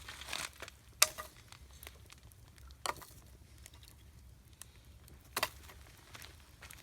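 Wood campfire crackling, with scattered sharp pops: the loudest about a second in, and others near three seconds and past five seconds.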